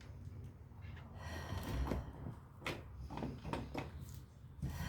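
A few light knocks and clicks over a low steady rumble, with faint voices in the background.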